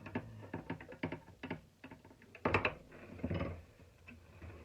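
Small metal parts and hand tools clicking and clattering as a shop vacuum motor is taken apart, with one louder clatter about halfway through followed by a short scrape.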